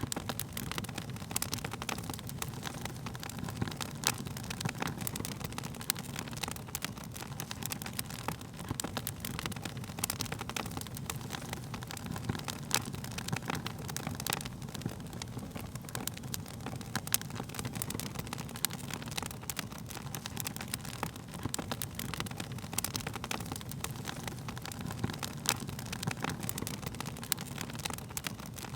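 Wood fire crackling, with frequent irregular sharp pops and snaps over a steady low rumble of burning flames.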